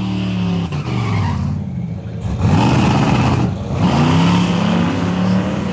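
Drag-racing car engine revving, its pitch climbing twice in quick succession.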